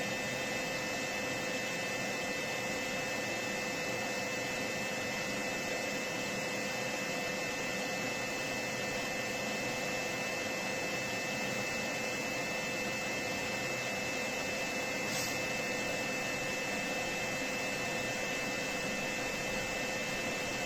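Generator's cooling fan running with a steady whir and a constant high whine, the fan having kicked in under the kettle's load.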